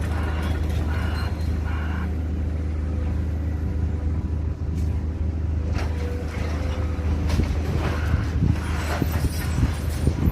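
A steady low engine-like rumble, with scattered knocks and clatter in the last few seconds.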